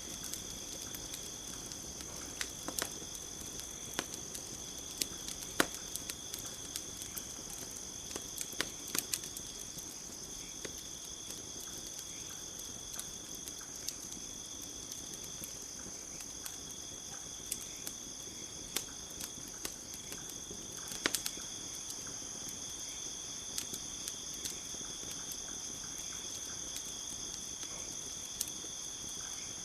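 Campfire crackling, with sharp pops scattered throughout and a small cluster of louder ones around the fifth and twenty-first seconds, over a steady high-pitched chorus of crickets.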